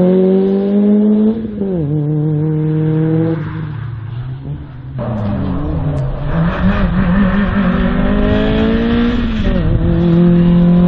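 Slalom race car's engine under hard acceleration, its revs climbing, then dropping sharply about a second and a half in. The revs run lower and quieter for a moment, climb again, then drop once more near the end.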